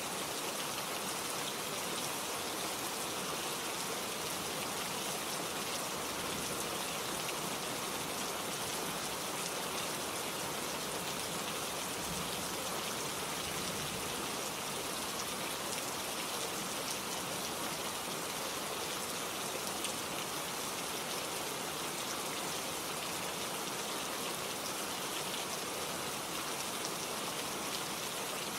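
Steady rain falling, a continuous even hiss with dense fine patter of drops.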